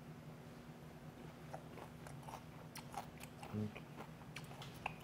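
Close-miked chewing of seasoned fermented skate (hongeo muchim), with crunches and wet clicks from about a second and a half in. A brief low hum comes about three and a half seconds in.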